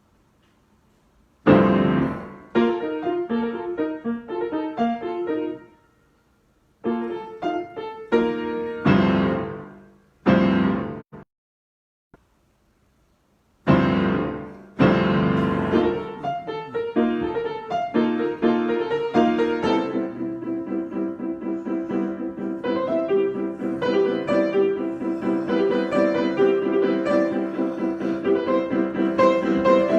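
Solo piano playing improvised music. It starts after a short silence with struck chords broken by pauses, falls silent for a couple of seconds in the middle, then moves into a continuous flowing passage of notes about twenty seconds in.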